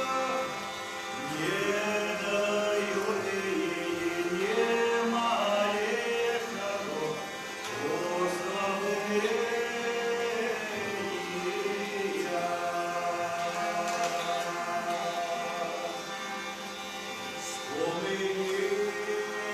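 A voice singing a slow melody with slides and ornaments over a steady sustained drone, with brief pauses between phrases.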